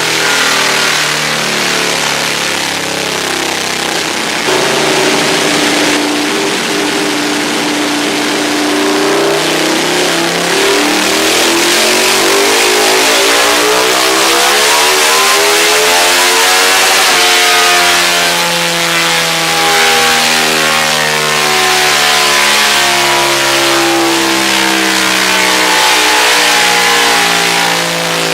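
Ducati 1199 Panigale S's 1198 cc Superquadro V-twin engine running on a rolling-road dyno during run-in, driving the rear wheel. The revs climb steadily for several seconds, change abruptly about two-thirds of the way through, then hold fairly steady.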